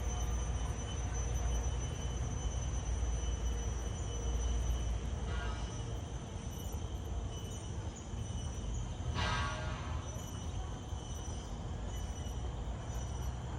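Garden ambience: a steady, high-pitched insect drone over a low rumble. A short bird call about five seconds in and a louder one about nine seconds in.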